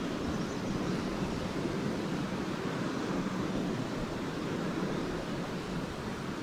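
Small lake waves washing onto a sandy beach: a steady wash of surf with no single wave standing out.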